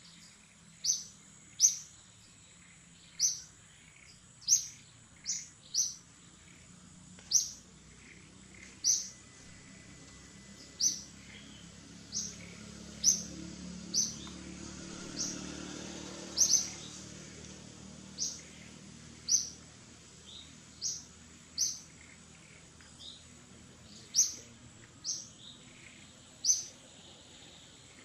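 A bird repeating one short, high chirp that slides downward, roughly once a second with irregular gaps. Under it a faint low rumble swells and fades in the middle.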